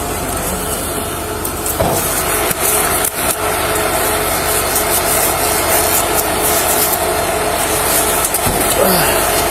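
A vehicle engine running steadily, with rubbing and scraping against the microphone and a few short clicks.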